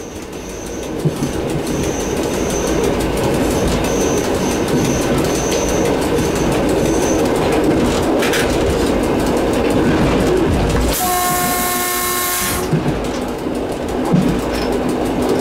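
EN57 electric multiple unit running along the line, heard from the driver's cab: a steady rumble with rail-joint clicks. The train's horn sounds once, for about a second and a half, about eleven seconds in. Short high beeps come and go through the first half.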